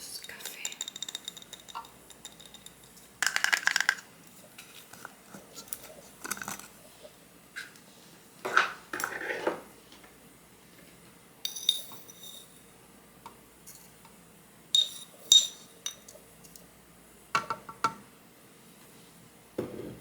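Miniature dishes and utensils clinking and tapping: a dozen or so separate short clinks and knocks, some with a brief high ring, and a short rattle a few seconds in.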